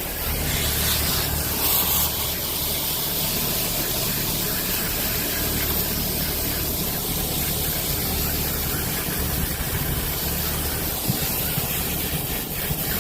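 Garden hose spray nozzle jetting water onto an outdoor air-conditioner condenser's coils and drain pan: a steady hissing spray, with a steady low hum underneath.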